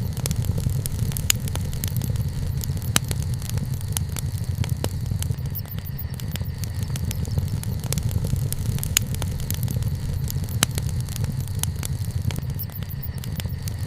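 Wood campfire burning, with irregular sharp crackles and pops from the burning wood over a steady low rumble.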